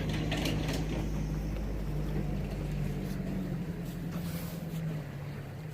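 An engine running steadily with a low hum that slowly fades.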